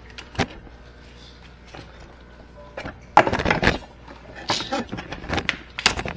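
Irregular clicks and clatter of hand tools and parts being handled while working under a motorcycle: one sharp click about half a second in, then a busier run of knocks and clinks from about three seconds in, over a steady low hum.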